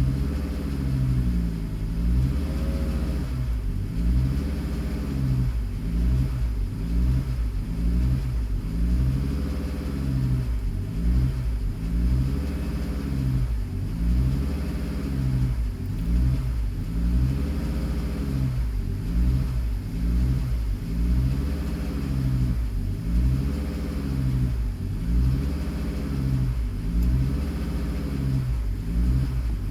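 Car engine running at idle with a regular surge, its pitch rising and falling about every second and a half.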